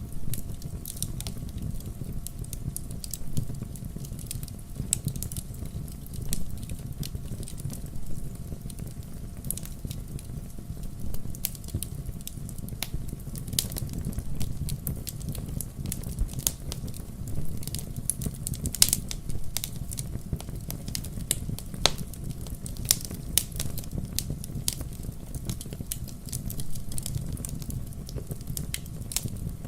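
Wood fire burning, with sharp irregular crackles and pops over a low steady rumble of the flames; one pop about two-thirds of the way through stands out as the loudest.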